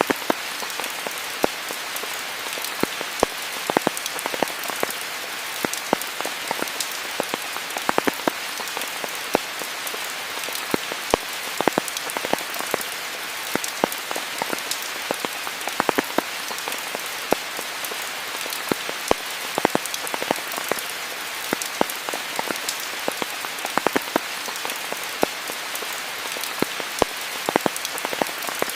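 Steady rain falling, an even hiss with many close, sharp drops hitting surfaces scattered through it.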